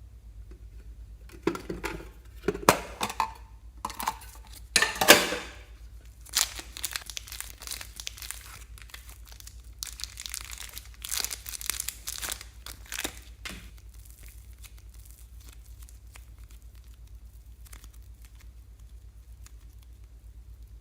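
Plastic piping bags crinkling and rustling as they are handled and squeezed, in a run of short crackly bursts for about twelve seconds, loudest around five seconds in, then stopping.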